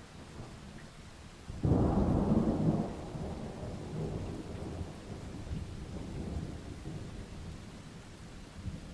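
Steady rain with a thunderclap that breaks suddenly about a second and a half in, then rolls on as a low, uneven rumble that slowly fades.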